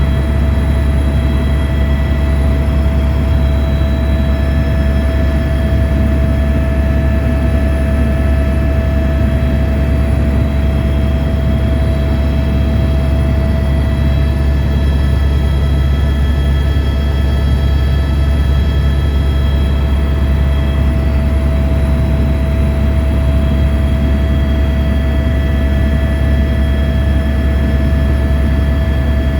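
Helicopter in flight: a steady, loud low drone with a steady whine and several fainter high tones on top, unchanging throughout.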